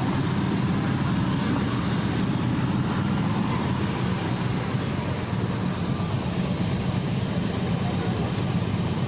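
Harley-Davidson V-twin police motorcycles running steadily at low speed and idle.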